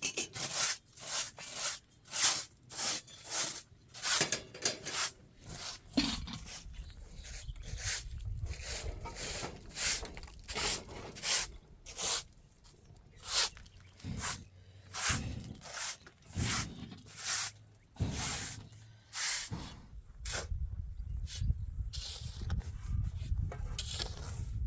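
Rhythmic rasping strokes of a hand tool worked back and forth against a surface, about two a second, with a few short pauses. A low steady rumble runs underneath from about a third of the way in.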